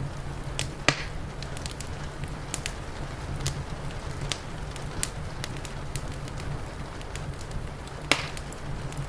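Wood fire crackling, with irregular sharp pops and two louder snaps about a second in and near the end, over a steady low rumble and hiss.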